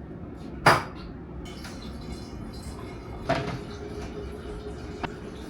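Two sharp knocks about two and a half seconds apart, the first the louder, then a faint click near the end, over a faint steady hum.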